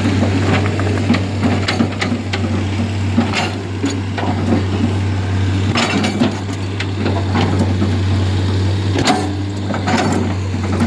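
A heavy engine running at a steady low drone, with irregular sharp knocks and clanks over it.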